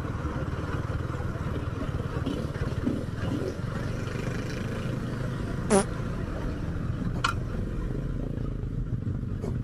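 KTM Duke 390 single-cylinder engine running steadily, heard from the rider's position. A brief sharp sound stands out about six seconds in, with a shorter one a second later.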